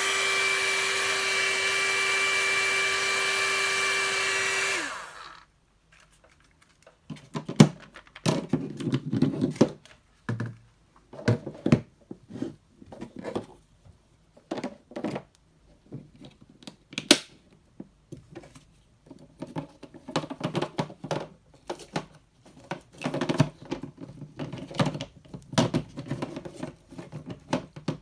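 Hot air brush (hair dryer brush) motor running steadily with a steady whine, then switched off about five seconds in, its pitch dropping as it winds down. After a short pause come irregular clicks, knocks and brief rustles of handling.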